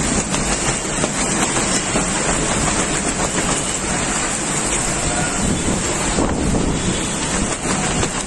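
Storm wind and rain in a steady, loud rush, with gusts buffeting the microphone.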